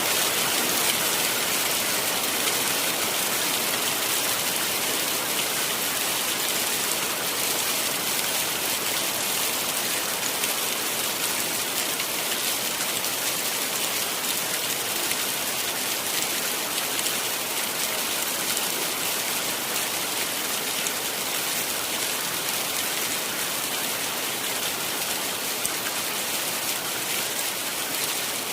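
Heavy rain falling steadily, a dense, even wash of drops with no breaks or changes.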